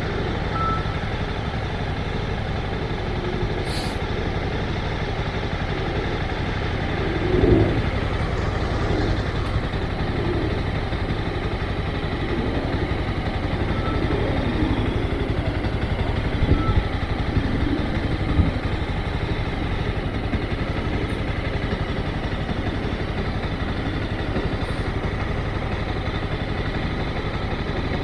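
Motorcycle engine running steadily at low speed, with a few short louder swells about seven seconds in and again around fifteen to eighteen seconds in.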